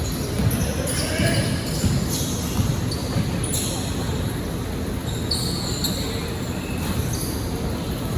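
Basketball game in a gym: the ball bouncing on the court, with short high squeaks scattered throughout and voices of players and spectators in the background.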